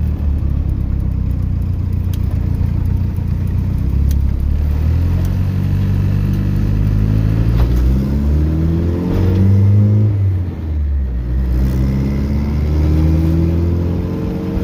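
Turbocharged Honda B20 VTEC four-cylinder (B20B bottom end, B18C1 GSR head, GT3582 turbo) accelerating on an untuned base map. The revs climb for about four seconds, drop suddenly about ten seconds in at a gear change, then climb again.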